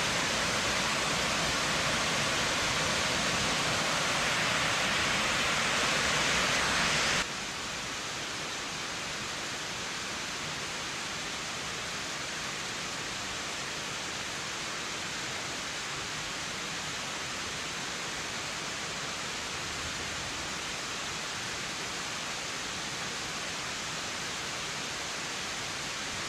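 Waterfall rushing: a steady wash of falling water that drops abruptly to a quieter, duller level about seven seconds in.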